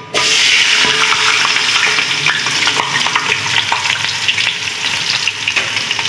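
Sliced onions dropped into hot cooking oil in a metal pot, setting off a sizzle that starts suddenly and runs on steadily with many small crackling pops as the onions fry.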